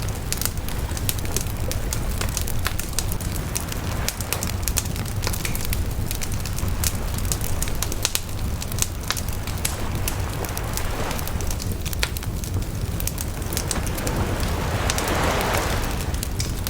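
Wood bonfire burning, with frequent sharp crackles and pops over a steady low rumble. A swell of rushing noise rises and falls near the end.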